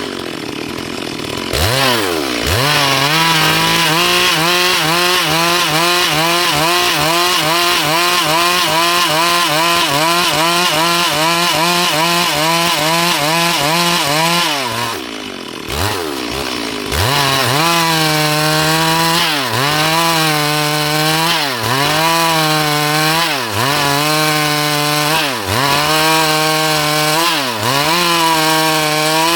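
Two-stroke chainsaw, a Stihl MS382, running at high revs while cutting dry wood. Its pitch wavers quickly through the first half, drops briefly about halfway through and revs back up, then sags and recovers about every two seconds as the chain is loaded in the cut.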